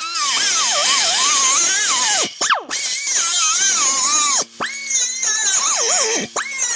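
A cut-off wheel tool cuts through a steel exhaust pipe: a high whine over a gritty grinding hiss. The pitch sags as the wheel bites into the metal and climbs back as it is eased off. Three times it briefly drops out and spins back up.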